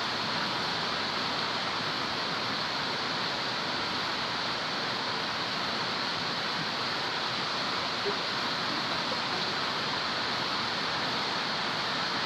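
Heavy rain falling: a steady, even hiss.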